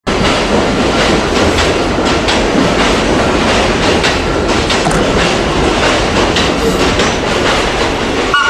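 LIRR M3 electric multiple-unit train rolling past close by, its wheels clacking irregularly over the rail joints.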